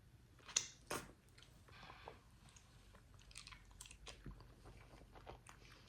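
Close-miked eating of mac and cheese: two sharp clicks about half a second and a second in, then faint, scattered mouth clicks and smacks of chewing.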